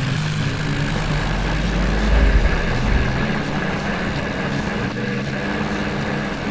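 Tractor diesel engine running, with a brief surge of deep low rumble about two seconds in.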